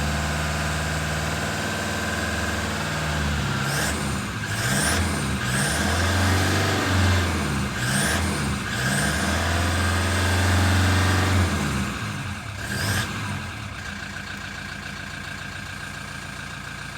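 Toyota Hilux 3.0-litre engine idling, then revved up and down several times in quick blips about 4 to 9 seconds in, held at raised revs for a couple of seconds, and then dropping back to a steady idle.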